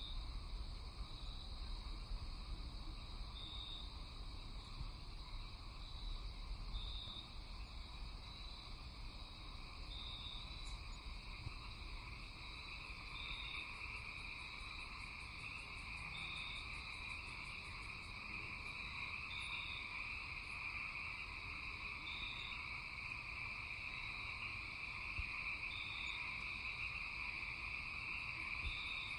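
Night chorus of insects and frogs: a steady high shrill drone of crickets with a short chirp repeating every few seconds, and a fast high trill joining in about halfway through.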